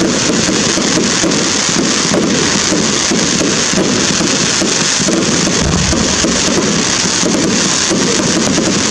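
Fireworks going off, a dense continuous crackle of many small pops at a steady level.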